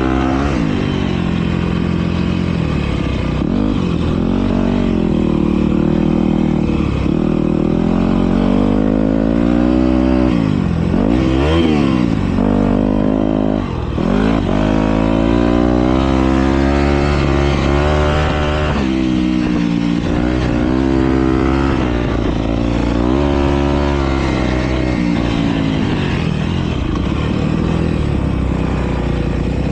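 Several motocross bikes racing, engines revving up and dropping back as the riders work the throttle, with sharp throttle chops and pick-ups about ten to thirteen seconds in.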